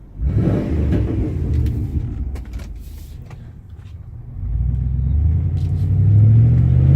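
Exhaust of a 1997 Chevrolet Silverado's stock 5.7 V8 through a Dynamax bullet muffler, heard from inside the cab with the back window down. It is a deep rumble that swells suddenly just after the start, eases off, then builds again about four and a half seconds in.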